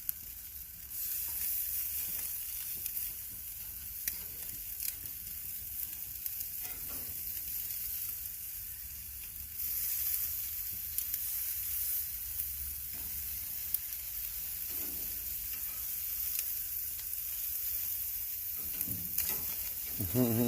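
Marinated chicken breasts sizzling on a gas grill: a steady hiss with scattered small pops and crackles, growing louder about a second in and again about halfway through.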